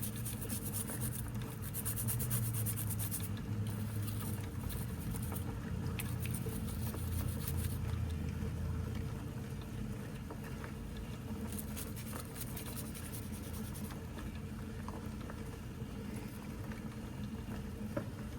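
Small steel depth gauge parts, wet from an Evaporust rust-removal soak, being handled and rubbed by hand: a soft, crackly patter with a few faint clicks, strongest in the first few seconds and again about two-thirds of the way through, over a low steady hum.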